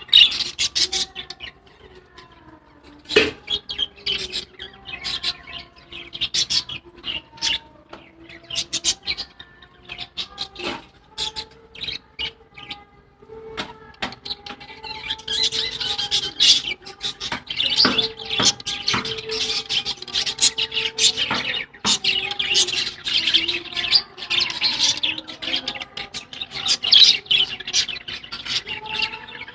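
Many small birds chirping and tweeting in quick, overlapping calls, which grow busier and louder about halfway through.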